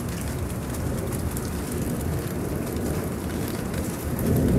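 Steady rain falling at the tail end of a thunderstorm, with a low, uneven rumble of wind on the microphone.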